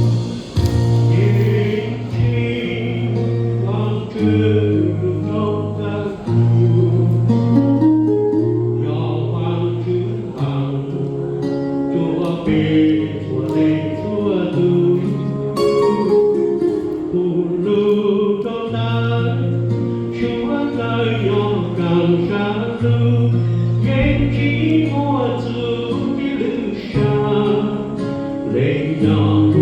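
A church congregation singing a hymn together in Hmong, accompanied by guitar over held bass notes.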